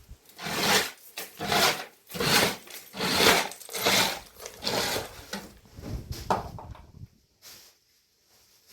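Rhythmic scraping or rubbing strokes, about eight of them at roughly one a second, that stop about seven seconds in.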